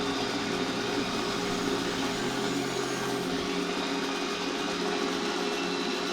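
Aircraft engine sound effect from a 1/18 scale Spitfire Mk1A model, running steadily through the model's small speaker during its full flight sequence. A low hum underneath stops about three seconds in.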